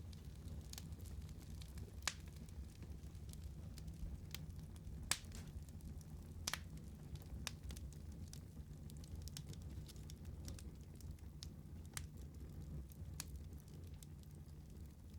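Wood fire crackling, with scattered sharp pops over a low, steady rumble of burning; the loudest pops come about two, five and six and a half seconds in.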